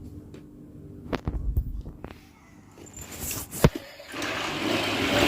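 A few plastic clicks and knocks, then, about four seconds in, a battery-powered motorised Thomas and Friends toy train starting up and running along plastic track with a steady whirr that grows louder.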